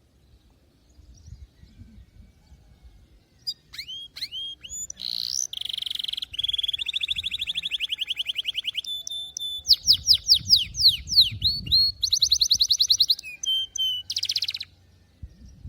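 Domestic canary singing a long song phrase that starts a few seconds in. It mixes fast, even trills with runs of quick downward-sweeping whistled notes, and the high song ends shortly before the finish.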